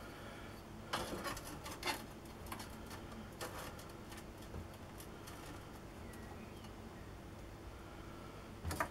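A few light clicks and knocks from the workbench, about a second in, near two seconds, again past three seconds and near the end, over a faint steady background hum.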